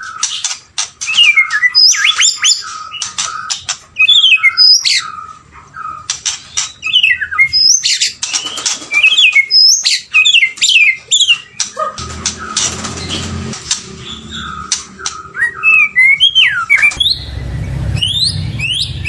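White-rumped shama singing a rich, varied song of quick whistled phrases, rising and falling notes and sharp clicking notes with short pauses between. A low rumble joins about two-thirds of the way through and grows louder near the end.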